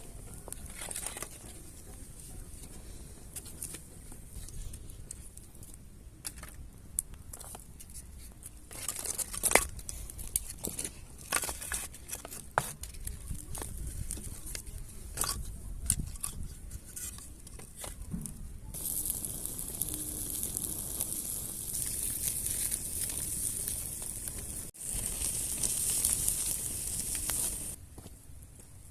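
Wood fire crackling and snapping, followed later by a steady high hiss from the embers that starts and stops abruptly twice.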